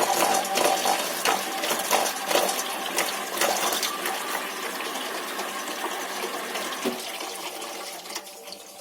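Water splashing and sloshing, with many irregular small splashes, gradually fading away.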